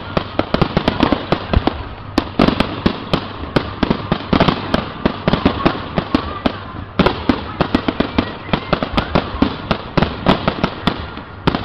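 Fireworks going off in a rapid, continuous barrage of sharp bangs and crackles, several a second, over a dense haze of noise.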